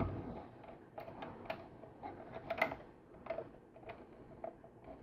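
Faint, irregular clicks and taps of LEGO plastic pieces being handled and pressed together.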